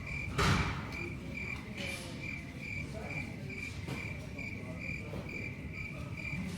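A steady high-pitched chirp repeating evenly about two to three times a second, with a short loud rustling burst about half a second in.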